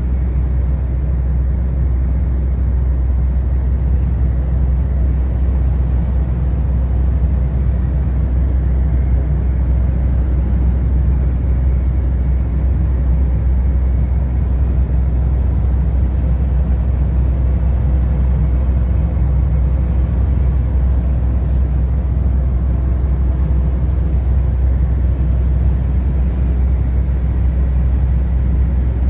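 Steady low rumble of a truck driving, engine and road noise holding at an even level throughout.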